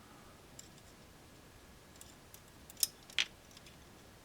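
A few light clicks and taps from handling a small plastic model trailer on model railway track, with two sharper clicks close together about three seconds in.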